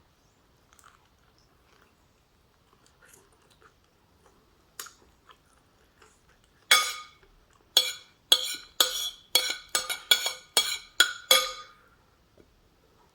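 An eating utensil clinking against a ringing ceramic or metal bowl, about ten sharp knocks over some five seconds, each ringing briefly at the same pitch. Before them, faint soft chewing.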